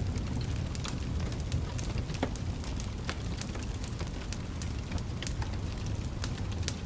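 Wood fire in a fireplace crackling: a steady low rumble of flames with frequent sharp, irregular pops and snaps.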